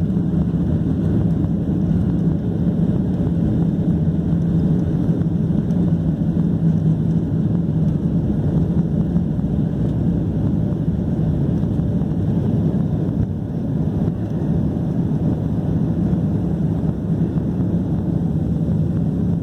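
Steady jet engine and airflow noise of a Southwest Boeing 737 in flight, heard from inside the passenger cabin as a constant low hum.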